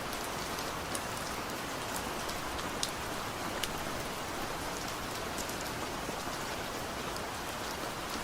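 Steady heavy rain falling on a surface, with a dense hiss and scattered sharp drop hits. No thunder is heard.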